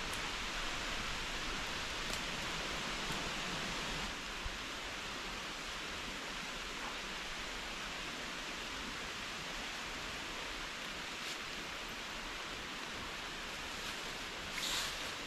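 Steady hiss of heavy rain, with a few faint drip ticks and a brief louder patter near the end.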